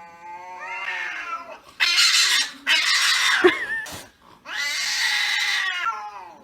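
Domestic cats fighting: a drawn-out, wavering yowl, then three harsh, hissing screams.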